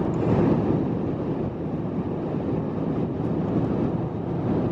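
Steady road and wind noise of a car driving.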